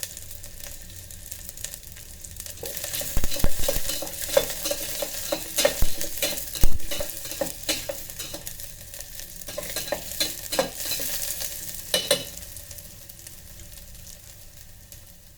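Chopped ginger, garlic and green chillies sizzling in a little oil inside an electric kettle, with a utensil stirring and clicking against the pot. The stirring is busiest in the middle and dies away near the end.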